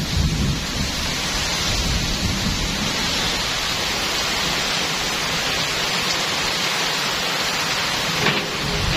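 Heavy downpour driven by strong wind, a steady loud hiss of rain, with a low rumble over the first couple of seconds.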